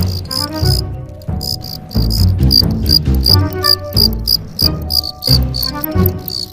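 Male cricket's rivalry call, the angry-sounding chirping a male makes when he runs into another male. It is a run of rapid high-pitched chirps, about four a second.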